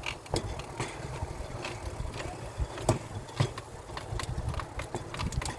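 Pedal-powered rail bike rolling along the track on steel wheels: a steady low rumble with irregular clicks and knocks, a few sharper ones about three seconds in and again near the end.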